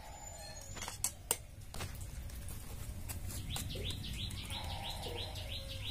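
A steel ladle clinks a few times against a steel pot while milk is stirred. Then, from about three seconds in, a bird chirps rapidly and repeatedly, about five calls a second.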